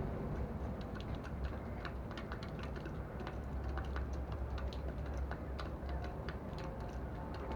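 A flock of sparrows pecking seed from a dish: many quick, irregular taps of beaks on the dish, over a low steady rumble.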